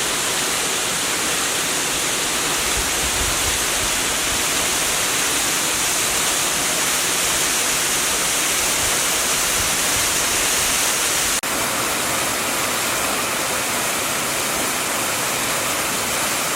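Waterfall pouring steadily, a constant loud hiss of falling water. About eleven seconds in the sound dips for an instant and comes back slightly softer in the high hiss.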